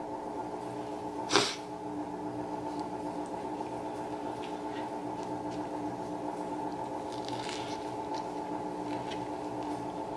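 Soft chewing and mouth sounds of someone eating a McDonald's breakfast sandwich, over a steady background hum. One short, sharp sound comes about a second and a half in.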